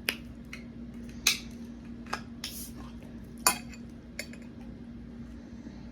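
Dishes and utensils clinking and knocking at a table: about half a dozen sharp separate clicks, with a steady low hum underneath.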